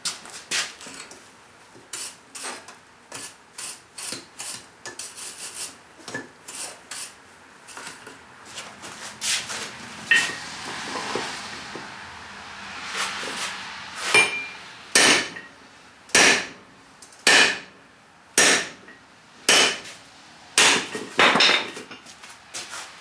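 Blacksmith's hammer forging hot steel on an anvil: the head of an old ball-peen hammer being drawn out into a scraper blade. Lighter, quicker blows in the first half, then heavier strikes about once a second.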